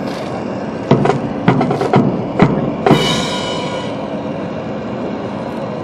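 Military brass band percussion: about half a dozen sharp drum strikes in two seconds, then a cymbal crash about three seconds in that rings away, opening a ceremonial honours salute.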